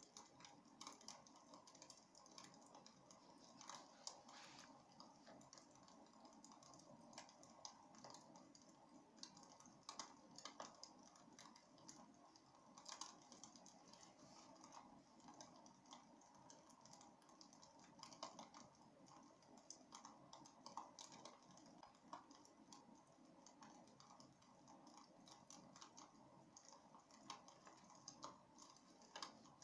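Faint crackling of burning wood in a fireplace: irregular small pops and snaps over a low, steady hiss.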